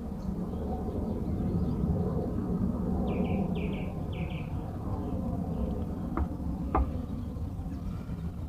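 A small garden bird chirps three times in quick succession about three seconds in, over a steady low rumbling noise. Two short clicks follow near the end.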